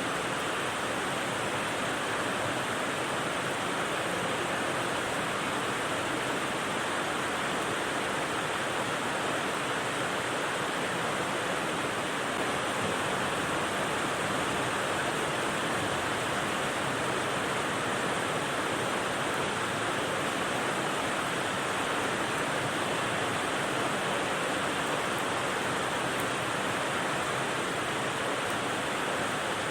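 Steady rain sound used as white noise: an even, unbroken hiss with no single drops, thunder or other events standing out.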